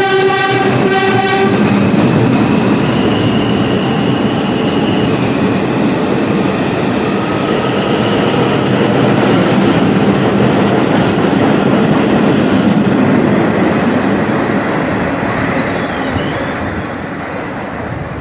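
An R142 subway train sounds a short pulsing horn blast, then runs through the station with loud wheel-and-rail noise and some faint high squeal. The train does not stop here, and the noise eases off near the end.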